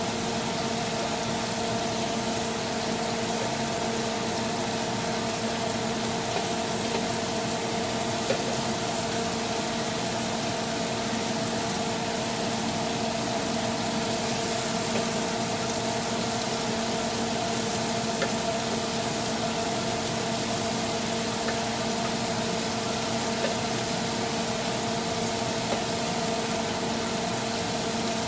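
Black tiger shrimp sizzling in garlic butter in a square grill pan: a steady hiss over a steady low hum, with a few light taps of a wooden spatula stirring.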